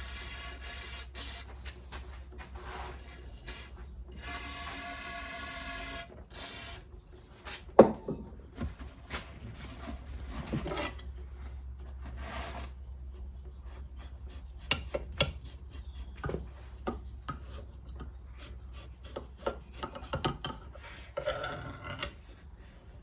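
Hiss of short sprays in the first six seconds, then scattered clicks and knocks of metal fork parts being handled and cleaned. The loudest is a single sharp knock about eight seconds in.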